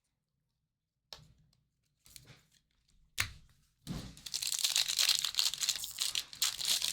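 Trading card pack wrapper being torn open and crinkled: a few small clicks and a sharp knock, then a long crackling tear from about four seconds in.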